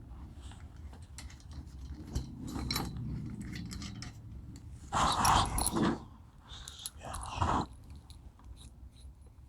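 Metal parts and hardware being handled during assembly of a table saw stand: clicks, rattles and scraping, with two louder bursts of scraping and clanking about five and seven seconds in.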